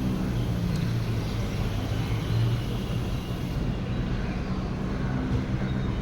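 Huebsch washing machine running: a steady low motor hum and rumble.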